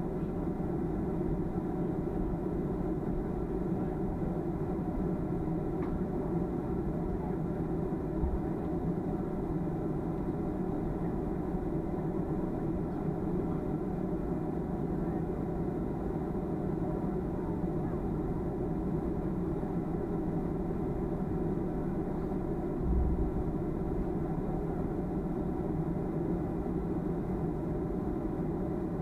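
Steady cabin drone of a Boeing 737-300 with its CFM56 jet engines running, several steady tones held over a low rumble, with two brief low bumps.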